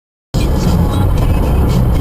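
Dead silence, then about a third of a second in, loud audio cuts in abruptly: a vehicle engine running, with music playing.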